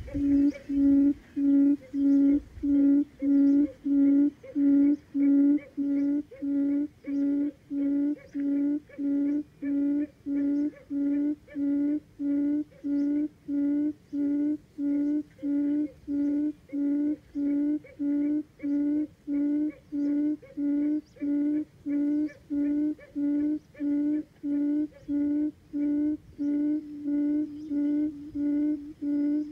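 Buttonquail ('cút rừng', forest quail) calling: a long, even series of low hooting notes at one pitch, about three every two seconds.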